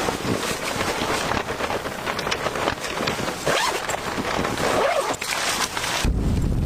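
Scratchy rustling and scraping handling noises, with a few short sweeping sounds, then wind buffets the microphone with a low rumble near the end.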